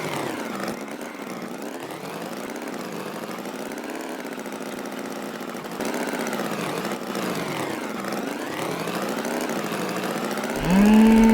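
Tractor engine sound effect running steadily, its pitch wavering up and down. Near the end a loud tone slides up and holds briefly.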